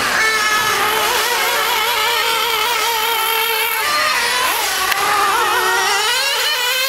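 Small high-revving Alpha engine running hard, its pitch wavering rapidly up and down, with dips in pitch about four and six seconds in.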